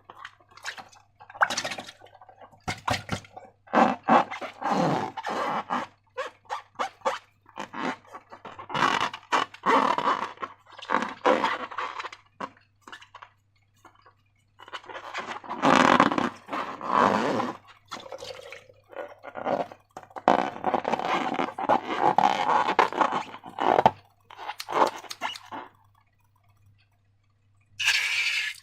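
Slime being squished and worked by hand with rubber balloons: irregular bursts of sticky, clicking handling noise with short pauses, dropping away a couple of seconds before the end.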